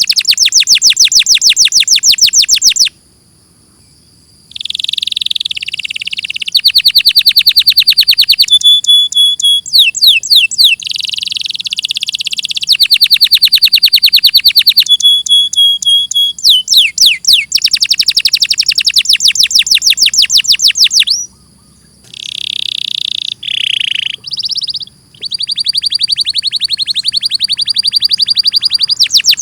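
Domestic canary singing: fast trills of rapidly repeated high sweeping notes alternating with steadier rolling phrases, with short pauses about three seconds in and again about twenty-one seconds in.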